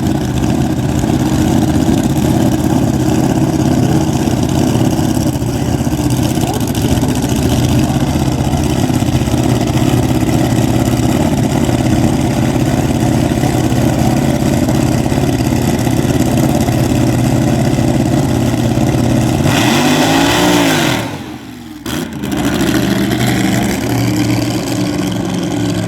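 A drag-race car's engine idles with a loud, steady note. About twenty seconds in it revs up and falls back, then briefly drops away before running on.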